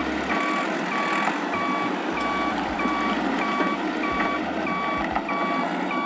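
Reversing beeper sounding a steady run of short beeps, about two a second, over a continuous hiss.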